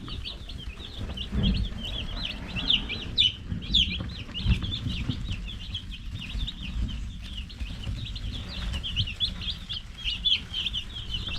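A crowd of day-old Cornish Cross meat chicks peeping, many short high calls overlapping without a break, over a low rumble.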